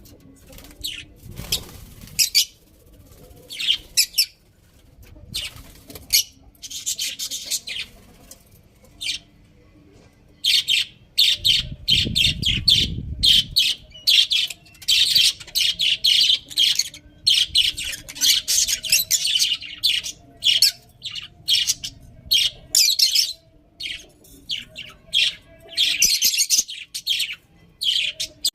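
Budgerigars chirping and chattering in short, high calls, scattered at first and then dense and continuous from about ten seconds in.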